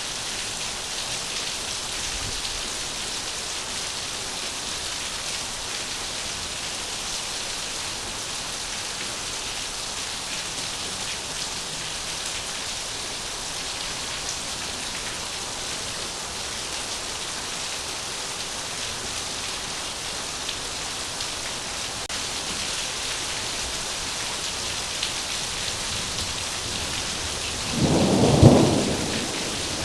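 Heavy rain falling steadily, with a loud burst of thunder near the end.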